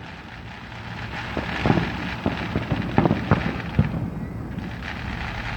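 Fireworks going off: a run of about six sharp bangs and pops over a steady background noise.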